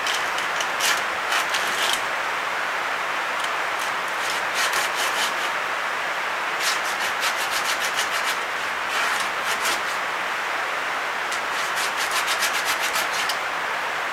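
Hand sanding a small dense-hardwood fitting with sandpaper: a steady rubbing hiss, with short runs of quick scratching strokes now and then.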